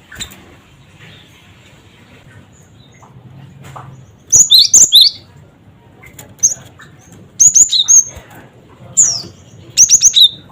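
Cinereous tit (gelatik batu) calling in short bursts of quick, sharp, high notes. A first group comes about four seconds in, then groups come about every second or two until near the end.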